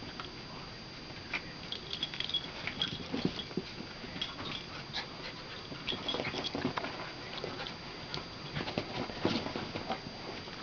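Two puppies play-wrestling: scuffling and quick clicks, with brief high-pitched squeaks now and then.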